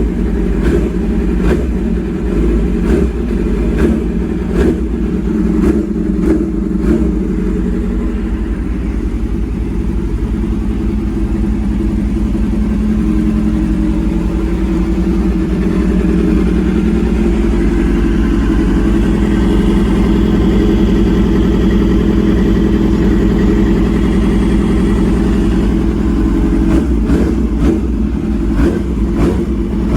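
Yamaha R6 inline-four engine running loud through an aftermarket SC Project exhaust, a steady, even note that climbs slightly in pitch past the middle, with scattered short crackles near the start and end.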